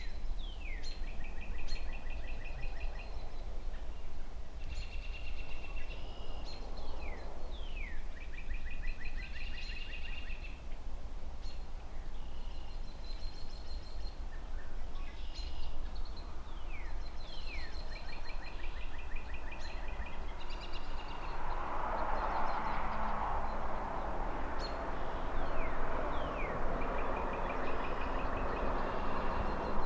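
A songbird repeating a short song every few seconds, a couple of falling slurred notes then a quick trill, over a steady low rumble of distant city traffic. From about two-thirds of the way in a long rushing swell of noise builds and holds.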